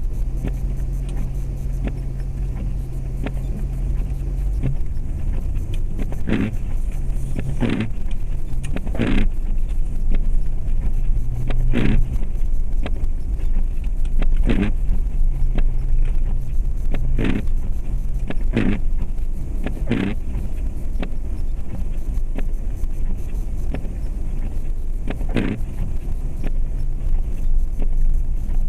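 2004 Jeep Grand Cherokee's 4.7-litre V8 running steadily under way, heard from inside the cabin. From about six seconds in, short sharp knocks come every one to three seconds.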